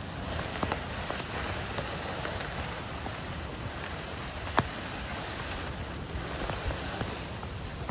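Sled sliding over snow: a steady scraping hiss, with a few sharp clicks.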